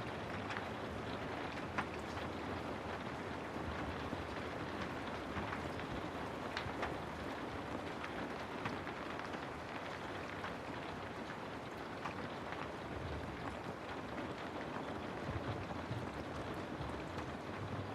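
Steady rain falling, an even hiss with scattered drops ticking now and then.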